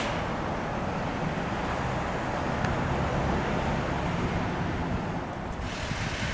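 Car engine idling steadily, with wind noise on the microphone swelling briefly near the end.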